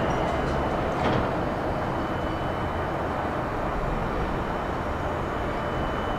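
Meitetsu electric commuter train running, a steady rumble with a faint high whine, and one sharp knock about a second in.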